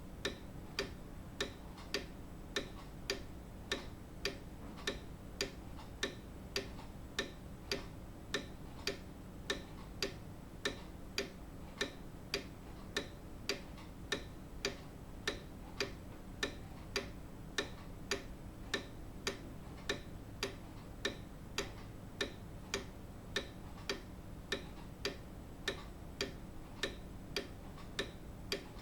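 Grandfather clock's escapement ticking steadily and evenly, a little under two ticks a second, with no chime, over a faint low hum.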